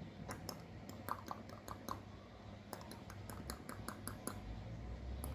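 Irregular light clicks and taps, several a second, from a parrot at play.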